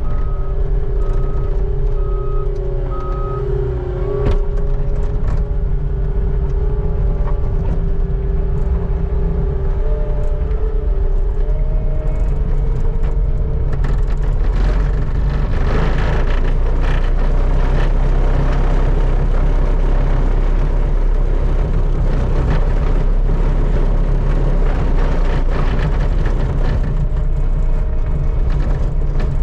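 Skid steer engine running steadily under load, with a whine that steps up slightly about eleven seconds in. From about halfway, a rougher scraping noise with many small knocks joins in as the bucket scrapes down the parking lot.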